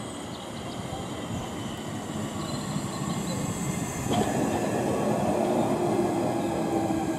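Southeastern Class 465 Networker electric multiple unit running into the station, a rumble of wheels on rail that grows louder. In the second half a steady whine rides over it, sinking slowly in pitch.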